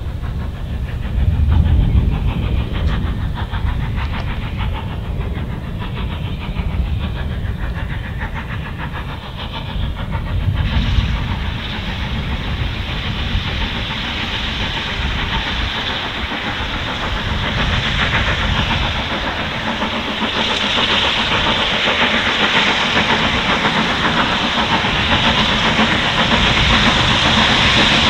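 Ex-Somerset & Dorset 7F 2-8-0 steam locomotive 53809 working, a low rumble at first; about ten seconds in a loud steam hiss starts suddenly and keeps building toward the end.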